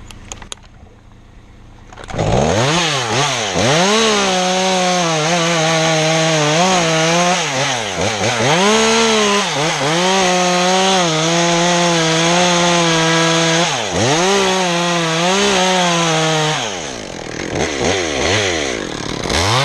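Two-stroke chainsaw coming up to full throttle about two seconds in and cutting wood. Its pitch sags again and again as the chain bites and recovers as it clears. Near the end it drops back toward idle, with one brief rev.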